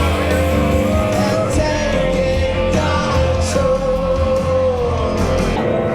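Live rock band playing with a singer, who holds one long note through most of the stretch over bass, guitar and drums.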